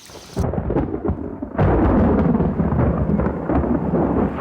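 A deep rumble that starts about half a second in and grows much louder about a second and a half in.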